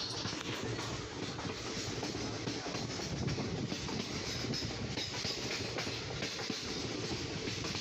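Passenger train running along the track: a steady rumble of wheels on rails with a clickety-clack.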